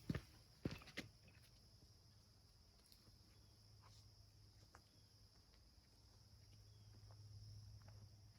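Near silence outdoors: a few footsteps in the first second, then only faint scattered ticks over a steady faint background hum.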